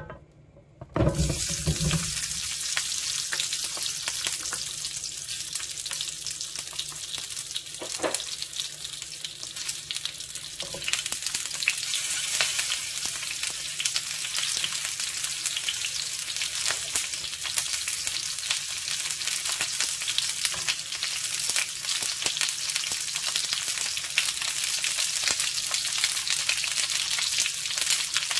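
Whole tomatillos dropped into hot oil in a skillet, starting a loud frying sizzle about a second in with a thump as they land. The sizzle keeps on steadily, with a few knocks as serrano chilis and garlic cloves go into the pan.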